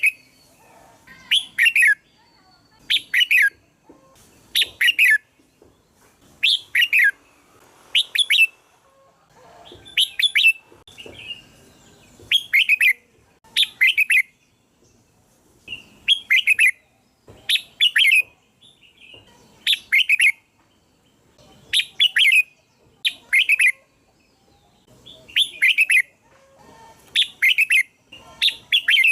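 Red-whiskered bulbul singing: short, bright warbled phrases repeated about every one and a half to two seconds.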